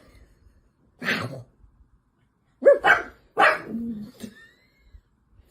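A dog barking a few times: one bark, a pause, then a quick run of barks.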